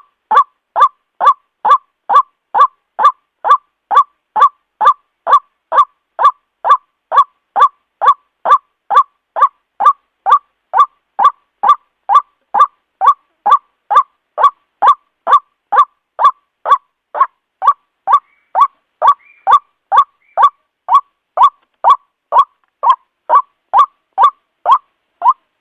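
White-breasted waterhen giving its repeated ruak-ruak call: loud, evenly spaced notes at about two a second, going on without a break.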